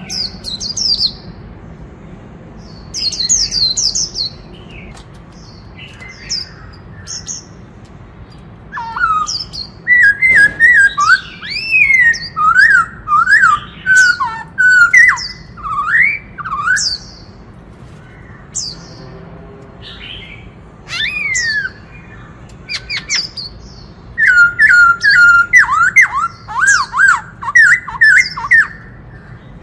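Black-throated laughingthrush singing: short high calls, then two long runs of loud, rich whistled phrases that glide up and down, one in the middle and one near the end.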